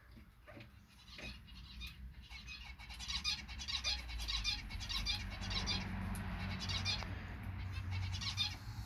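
Aviary birds, kakariki parakeets and zebra finches, chattering in quick repeated bursts of high calls that start about three seconds in, over a low rumble.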